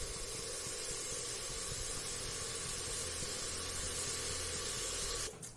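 Chopped tomatoes sautéing with onions in ghee in a pan, giving a steady sizzle that stops abruptly near the end.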